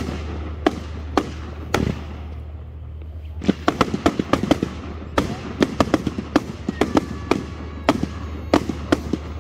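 Aerial fireworks bursting with sharp bangs. A few spaced reports come first, then after a short lull, about three and a half seconds in, a rapid crackling barrage of many bangs.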